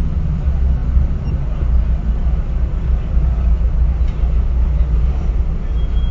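Steady low rumble of a car idling and creeping forward at walking pace, heard through a dashboard camera inside the cabin.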